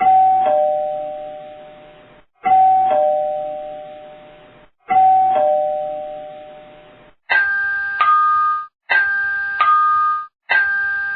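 Two-tone "ding-dong" doorbell chime rung three times, a higher note followed by a lower one, each ringing out slowly. About seven seconds in, a different, higher-pitched ding-dong doorbell chime takes over, repeating with shorter notes that stop abruptly.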